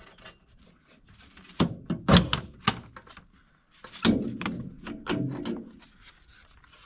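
Plastic car trim panel held by clip tabs being worked loose by hand: a series of knocks, plastic clicks and rubbing, loudest about two seconds in and again around four seconds.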